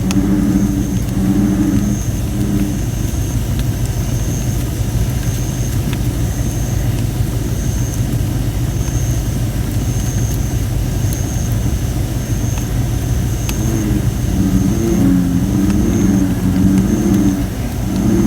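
Wood fire of thin, not fully dried red robin (photinia) branches, crackling with scattered sharp pops over a steady low rumble. An American bullfrog calls in low, wavering drones briefly at the start and again from about three-quarters of the way through, and a high chirp repeats about once a second throughout.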